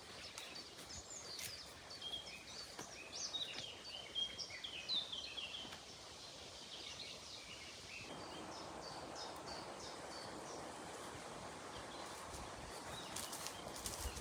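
Wild songbirds singing, many short high chirps and trills. About eight seconds in, a steady outdoor hiss takes over, with only a few faint chirps above it.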